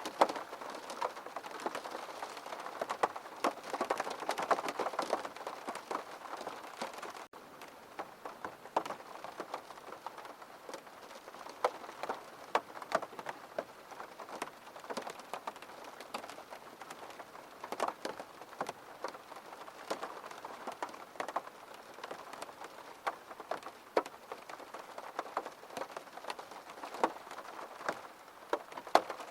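Steady gentle rain falling on a surface: individual drops tick and splash over a continuous hiss. It is a little heavier in the first several seconds and eases slightly after about seven seconds.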